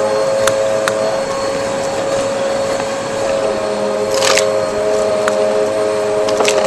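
Vacuum cleaner running steadily, its motor whining on a few fixed pitches, with occasional small clicks and a brief rushing surge about four seconds in.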